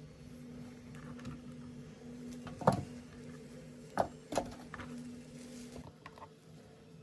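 A few sharp knocks: a loud one nearly three seconds in and two more close together about four seconds in, over a low steady hum.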